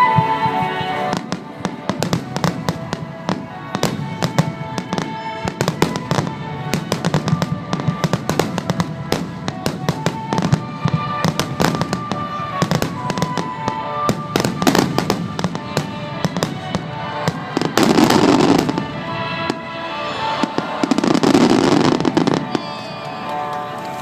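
Fireworks display going off to music: a rapid run of pops and crackles from many shells, with two louder, longer bursts about three-quarters of the way through. The music is the display's theme song played over loudspeakers.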